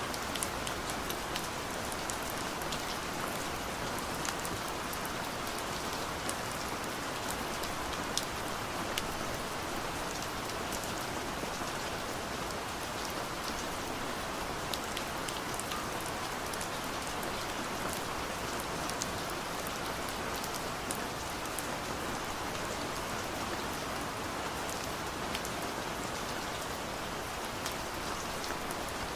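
Steady rain drumming on a car's roof and windows, heard from inside the cabin, with a dense patter of individual drops ticking over a constant hiss.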